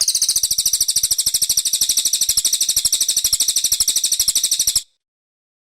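Brown cililin songbird singing one long, very high-pitched rapid trill of about fourteen notes a second, which stops abruptly near the end.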